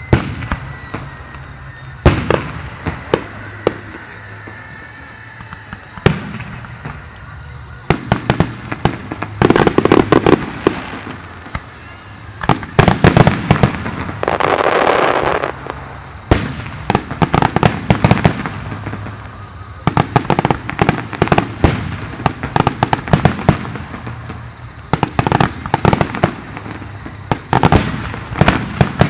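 Fireworks display: aerial shells bursting with sharp, single bangs for the first several seconds, then dense volleys of rapid crackling bangs. A sustained hiss rises about halfway through.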